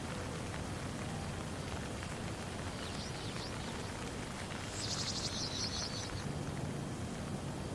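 Steady rain falling on a pond, an even hiss. Over it, a few short high chirps about three seconds in, then a rapid high chattering trill lasting about a second.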